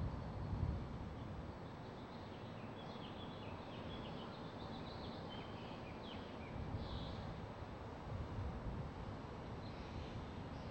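Steady ambient background noise with a low rumble, replayed and re-recorded through an open microphone, with a scatter of short high chirps in the middle.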